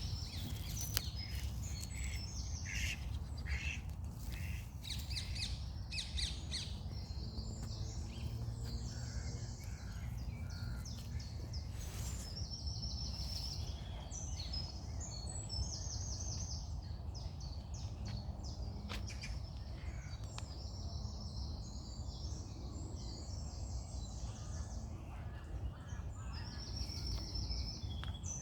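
Several birds singing and chirping, with many short high notes and quick trills repeating every second or two, over a steady low rumble.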